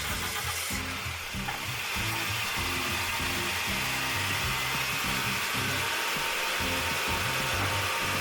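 A car's air-conditioning blower fan comes on with the ignition, with the engine started, about a second in and settles into a steady hissing rush of air, blowing through a freshly foam-cleaned evaporator. Background music runs underneath.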